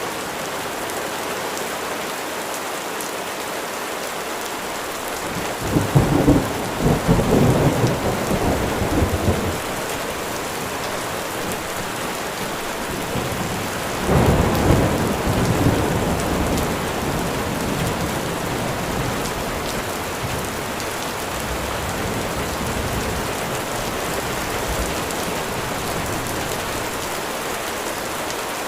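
Steady rain falling, with two rolls of thunder. The first comes about six seconds in and lasts a few seconds. The second starts about fourteen seconds in and slowly fades away.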